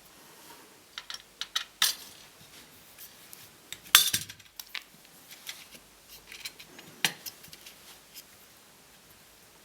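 Small metal laptop parts and tools being handled on a work surface: scattered clicks, taps and clinks, the loudest about four seconds in.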